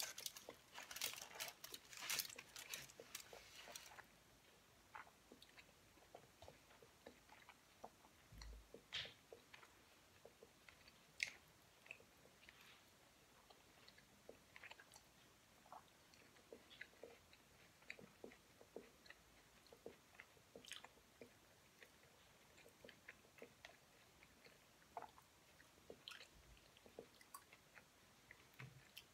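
Quiet chewing and biting of sushi rolls, with scattered sharp mouth clicks. In the first few seconds there is a dense burst of crackling from aluminium foil being handled on the table.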